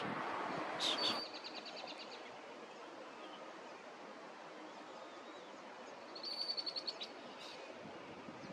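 A songbird singing a short, high, rapid trill twice, each phrase opening with a sharp note, over a steady outdoor noise.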